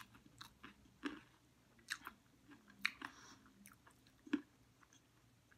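A person chewing a mouthful of chatpate, a spicy puffed-rice snack: faint crunching with a few short, sharp crackles at irregular gaps of about a second.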